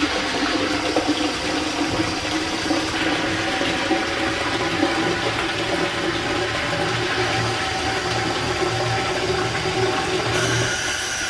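Hancock steam injector (inspirator) running, feeding water into the boiler: a steady rushing hiss of steam and water. The hiss changes about a second before the end.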